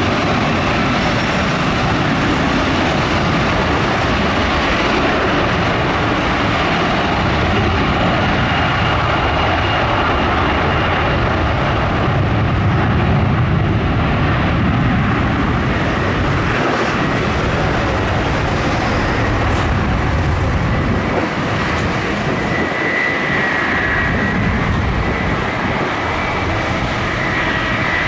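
Airbus A330-300's twin Rolls-Royce Trent 700 turbofan engines at takeoff power: a loud, steady jet roar. A thin high whine joins it about three-quarters of the way through.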